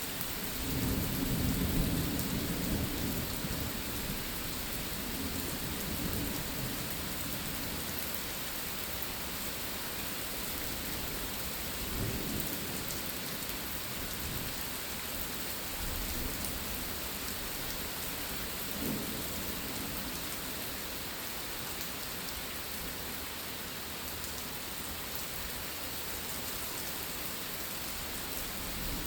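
Steady rain falling during a thunderstorm, with a low rumble of thunder building about a second in and lasting a couple of seconds, then a few fainter rumbles later.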